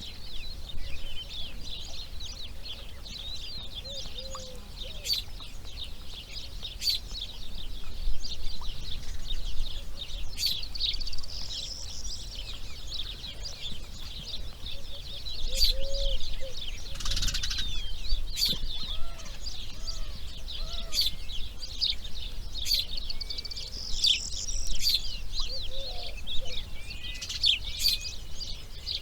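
Wild birds chirping and calling continuously, many quick high chirps overlapping, with a few lower calls and sharp clicks. A brief rustling burst comes a little past halfway.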